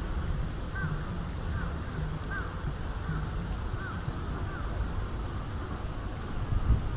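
Wild birds calling: a run of short repeated calls alongside a few thin, very high chirps, over a low wind rumble on the microphone.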